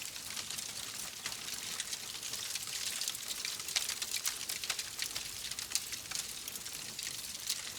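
Wood fire crackling: many small quick pops and snaps over a steady hiss.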